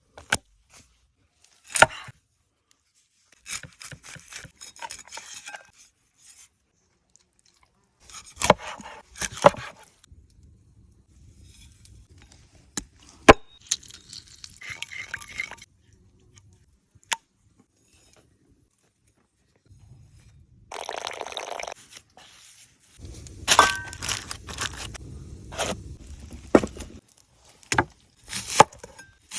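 Food-preparation handling noises: intermittent scraping and rustling with scattered sharp knocks and clicks, one especially loud knock about halfway through, and quiet gaps between.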